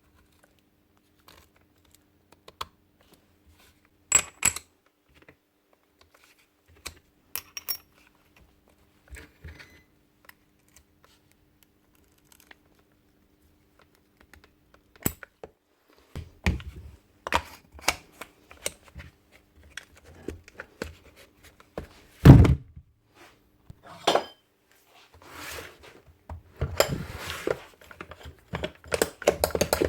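Scattered clicks, taps and clunks of metal tools and hammer parts being handled during reassembly. They are sparse at first and become busier and louder about halfway through.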